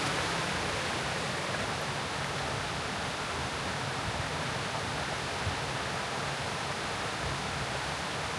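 Steady, even rushing noise with no distinct events, easing off very slightly over the seconds.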